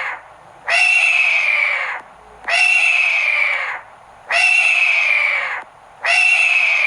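Hawk screaming: long, harsh, slightly falling calls repeated evenly, about one every two seconds.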